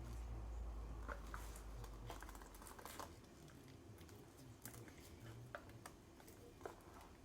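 Scattered light clicks, taps and crinkles of plastic mixing cups and stir sticks being handled while coloured epoxy resin is poured. A low hum runs under the first two and a half seconds, then stops.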